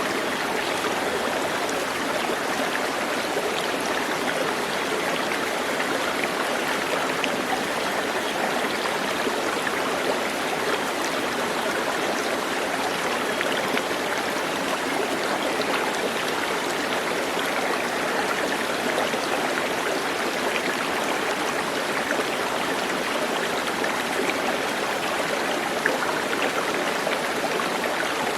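Steady rush of running water, as of a stream flowing over rocks, holding even throughout.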